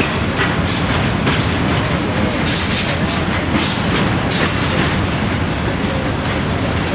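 Freight train of covered hopper cars rolling past a grade crossing: a steady wheel-and-rail rumble with clickety-clack over the rail joints and repeated brief high-pitched wheel squeals.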